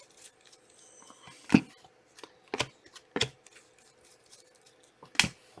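Trading cards being handled on a table: faint rustling with about four short, sharp clicks and flicks spaced a second or so apart.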